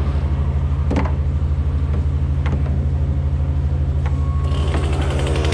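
A large engine idling steadily with a low, pulsing hum, with a few light clicks over it. Near the end a higher buzzing engine comes in.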